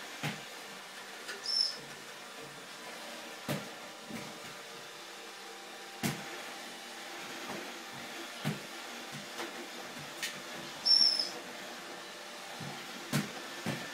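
iRobot Roomba 780 robot vacuum running: a steady motor and brush hum with irregular clicks and knocks. A brief high tone sounds twice, about a second and a half in and again near eleven seconds.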